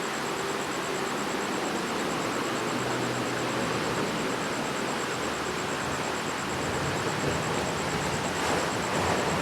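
Waterfall rushing: a steady hiss of falling water, with a faint low hum underneath.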